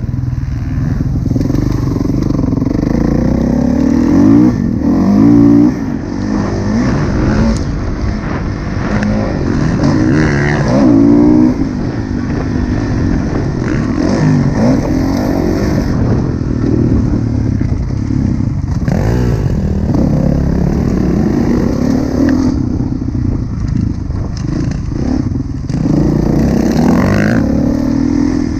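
2016 Kawasaki KX450F four-stroke single-cylinder motocross engine revving up and down as it is ridden hard, its pitch rising and falling with each burst of throttle. The loudest pulls come about four to six seconds in and again around ten seconds in.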